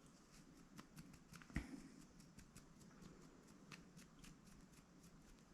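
Faint scratching and small irregular clicks of fingers picking at the cut ends of a braided cotton macrame cord, unwrapping the braid so it frays into a tassel, with one louder knock about a second and a half in.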